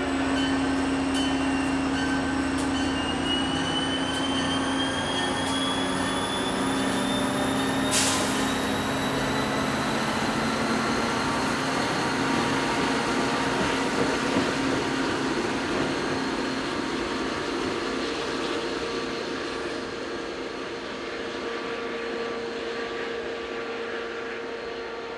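Passenger train running through the station just after its horn: a steady rumble of wheels on rail with a thin high whine slowly rising in pitch. A sharp click comes about eight seconds in, and the sound fades over the last several seconds.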